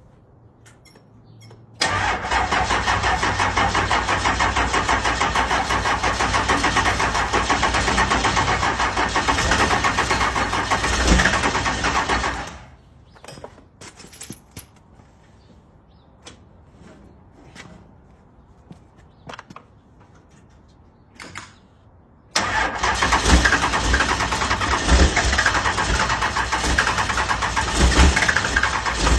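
Car engine cold-starting: it comes to life loudly about two seconds in and runs for about ten seconds, then stops abruptly. After a quieter stretch with scattered clicks, it is started again and runs with uneven low thumps.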